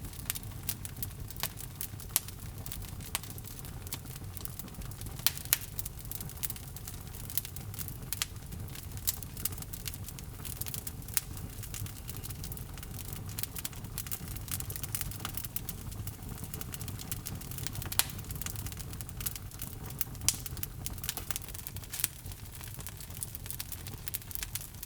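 Log fire burning in a fireplace: frequent sharp, irregular crackles and pops from the burning wood over a steady low rumble of the flames.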